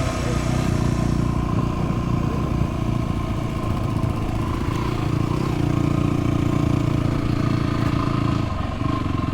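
Dual-sport motorcycle engine running steadily under way, with a short dip in level about eight and a half seconds in.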